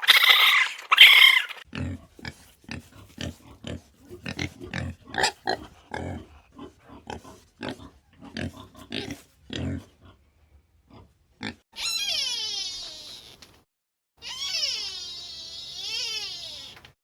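An animal calling: a run of short low grunts, about two a second, then two long wavering cries near the end.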